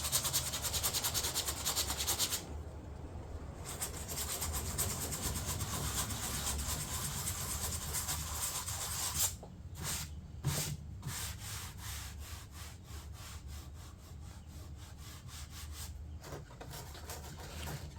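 Sandpaper rubbed back and forth by hand over hardened body filler on a fiberglass door panel, in a steady run of rapid strokes. It pauses briefly about two and a half seconds in and turns softer after about nine seconds. The filler is being knocked down at its high spots before finish sanding.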